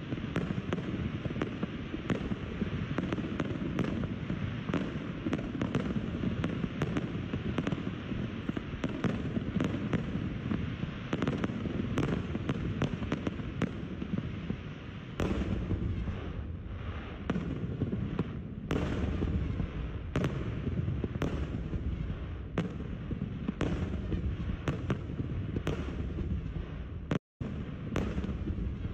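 Aerial fireworks display: rapid bangs and crackling from bursting shells, several a second over a continuous rumble. The sound cuts out for a moment near the end.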